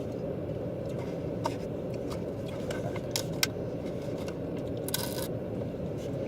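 Steady low rumble of a car's interior, with a few small sharp clicks and a brief rustle about five seconds in.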